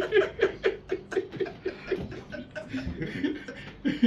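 People laughing: a run of quick chuckles, several a second, fading off gradually.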